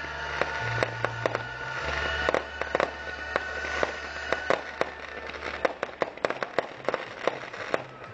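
Aerial firework shells bursting in quick succession, a steady run of sharp bangs and crackles. Music with a low bass line plays underneath and drops out about two-thirds of the way through.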